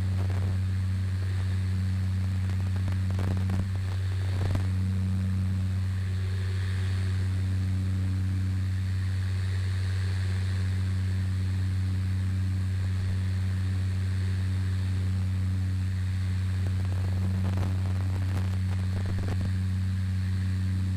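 Cessna 208 Caravan's PT6A turboprop engine and propeller at climb power just after takeoff, a steady, unchanging low drone.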